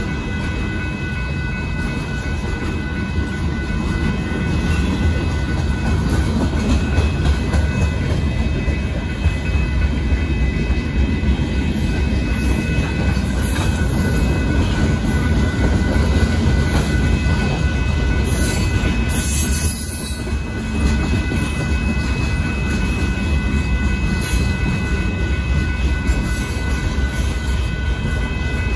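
A CSX freight train of boxcars rolling steadily past a grade crossing, with a continuous low rumble from the cars and thin steady high-pitched tones above it.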